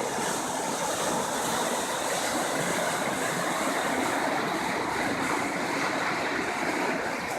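A rain-swollen river in flood, its fast water rushing with a steady, unbroken noise.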